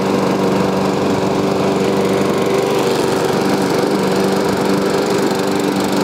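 Toro Personal Pace self-propelled mower's small gas engine running steadily at constant speed, without any rattle: the engine runs sound now that the water has been drained from its hydrolocked cylinder.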